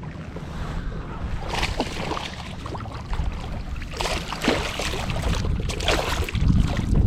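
Water splashing in several short bursts as a hooked northern pike thrashes at the surface beside the kayak, with wind rumbling on the microphone, strongest near the end.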